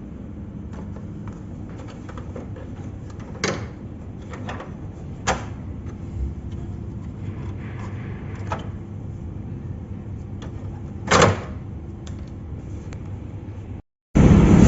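Scattered knocks and clunks of a laser printer's plastic casing being handled, four sharp ones spread out, over a steady low hum. Near the end the sound drops out briefly, then a loud even burst of noise starts.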